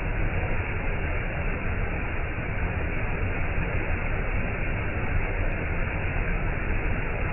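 Waterfall: falling water rushing steadily as an even, unbroken roar, strongest in the low end.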